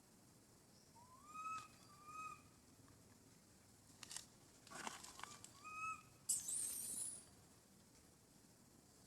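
Baby monkey giving three short, faint rising calls, with a few sharp clicks or knocks in between and a brief high, hissy screech near the end.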